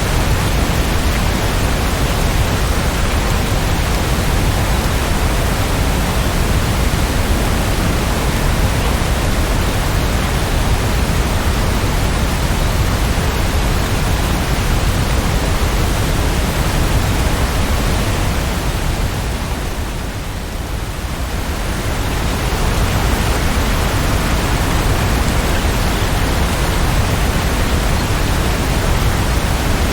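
Heavy, steady rainfall: a dense, even hiss across all pitches. It dips a little in loudness for a couple of seconds about two-thirds of the way through, then returns to full strength.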